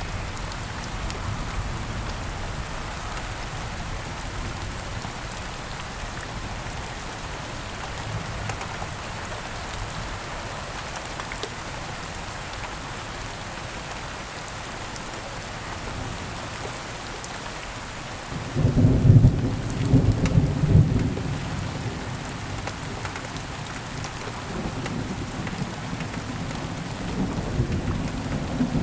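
Thunderstorm: steady rain falling throughout, with a loud clap of thunder rumbling in suddenly about two-thirds of the way through and fading over a few seconds, then lower rumbling near the end.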